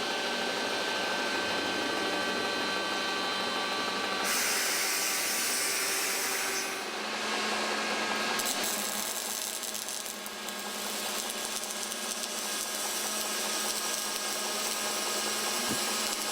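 Steady industrial noise from welding and workshop machinery: a continuous hiss with several steady machine tones. Its character shifts abruptly about four seconds in and again about eight seconds in.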